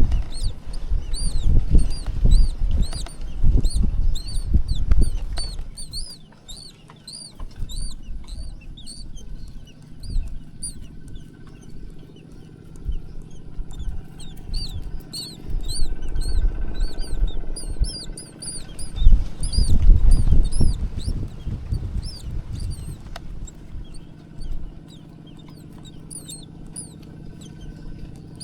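Nestlings cheeping in a steady run of short, high chirps, several a second, typical of begging for food. Loud low rustling and thumps in the first five seconds and again about twenty seconds in.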